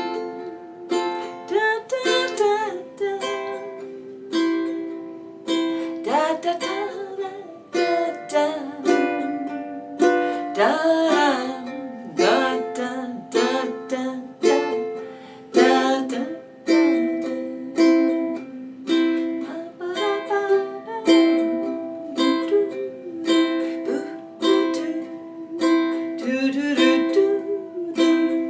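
Ukulele strummed in a bounce-down pattern, a soft partial strum then a fuller down strum, through C, F and G7 chords. A wordless hummed melody runs along with it.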